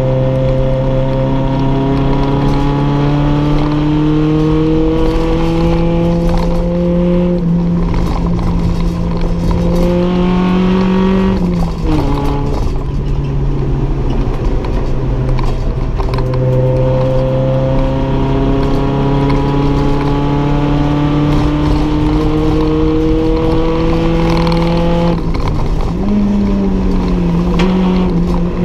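Toyota 1.6-litre 4A-GE twin-cam four-cylinder engine under hard load, heard from inside the stripped race car's cabin. The revs climb slowly and steadily, drop sharply about twelve seconds in, then climb again before dropping and flicking briefly up again near the end.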